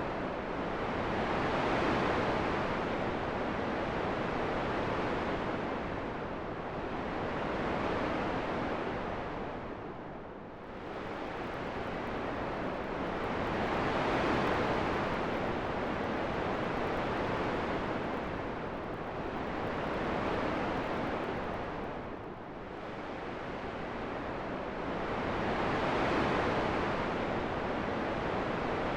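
Rushing wind noise that swells and eases in slow surges, fading down twice about twelve seconds apart before building again.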